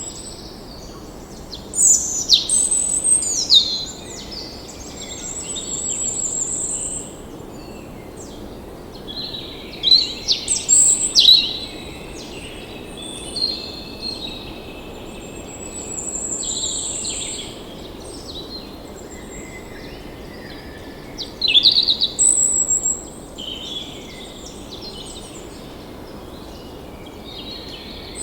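Songbirds singing: short, bright, quickly gliding phrases every several seconds, alternating with longer high, thin trills, over a steady low background hiss.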